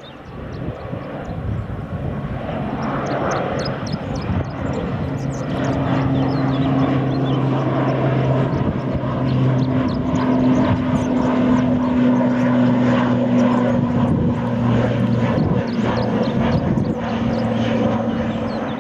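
Airliner's engines running loud and steady as the aircraft passes close by, building up over the first few seconds into a drone with low, steady tones.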